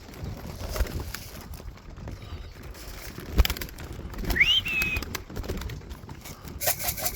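Pigeon loft: a single sharp knock about three and a half seconds in, then a short whistled note that rises quickly and levels off, and a quick run of clicks near the end.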